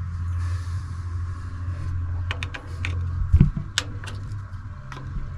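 Scattered sharp clicks and taps, with one heavier thump about three and a half seconds in, as a Holley carburettor is handled and checked for a fuel leak, over a steady low hum.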